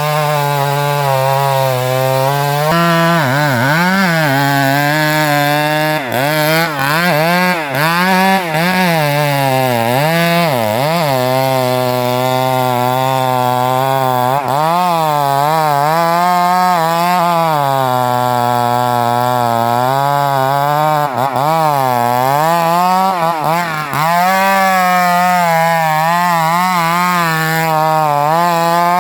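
Two-stroke chainsaw running at high revs while cutting wood. Its engine pitch dips and recovers again and again as the chain takes the load.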